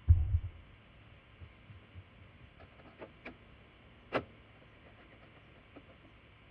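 A low thump, then a few faint clicks and one sharper click about four seconds in: handling noises of work on tractor controls.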